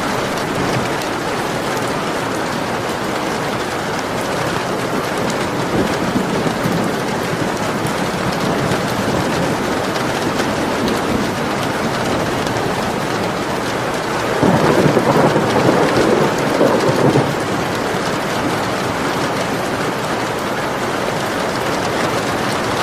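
Steady heavy rain falling, with a roll of thunder swelling up about two-thirds of the way through and lasting about three seconds.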